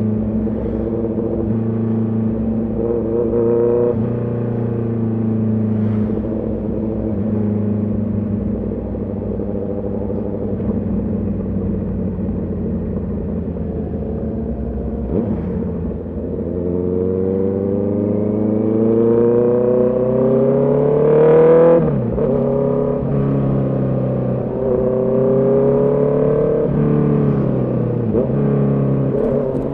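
Honda CB650R inline-four engine and exhaust running under way, holding steady revs at first. Past the middle the revs climb steadily for several seconds and then drop sharply, as at a gear change or a closed throttle; a shorter rise and fall follows near the end.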